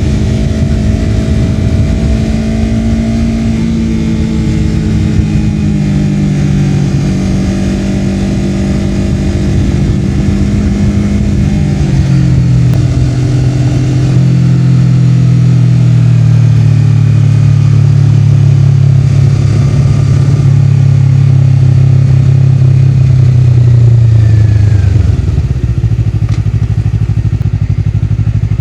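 Honda CBR250RR's parallel-twin engine through a Yoshimura R-11 slip-on exhaust, running under way. The engine note sinks slowly and steps down to a lower, louder note about halfway through. It keeps easing down, then drops away and goes quieter near the end as the throttle is closed.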